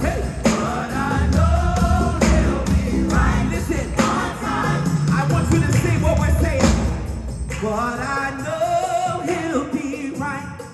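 Live gospel music: a choir singing with a full band, drums and bass under the voices. The low end of the band thins out near the end.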